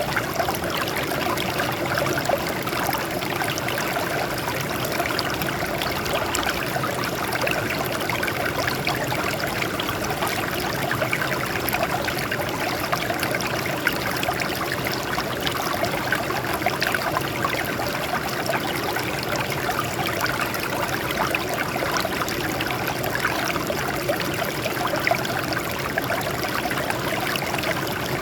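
Water flowing and trickling over rocks in a small stream, a steady splashing and babbling.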